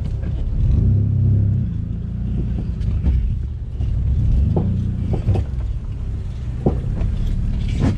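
Single-turbo Infiniti G35's VQ35 V6 engine running while driving, the note rising and falling with throttle. A few short sharp knocks come in the second half.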